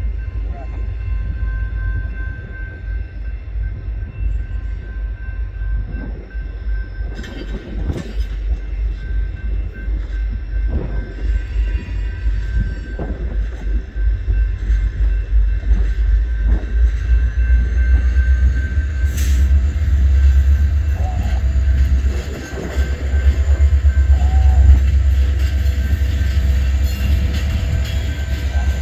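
Great Lakes Central Railroad diesel train approaching a grade crossing: a deep rumble that grows louder over the second half, with a faint steady high tone throughout.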